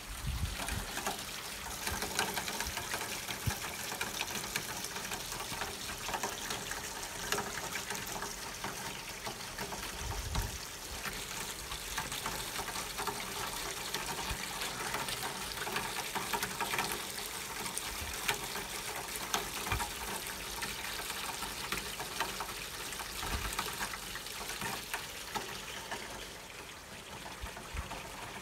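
Steady rain falling, with water trickling and splashing and many small drips ticking through it, plus a few low thumps.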